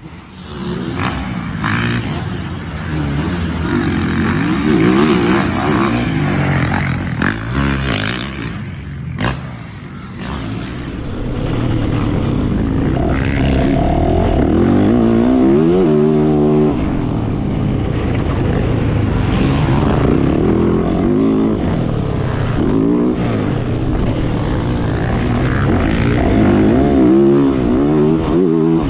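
Yamaha YZ450F single-cylinder four-stroke dirt bike engine being ridden hard, revving up and down again and again as the throttle opens and closes. The first ten seconds or so are rougher and noisier, then the engine note runs steadier.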